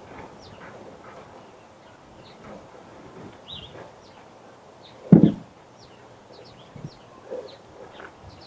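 Birds chirping: short, high chirps scattered throughout, with one loud thud about five seconds in.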